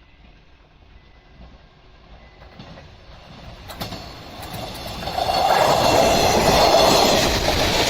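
A train on the Fukuen Line approaching and passing close by. Its rumble and the clatter of the wheels grow steadily louder from about three seconds in and peak in the last couple of seconds.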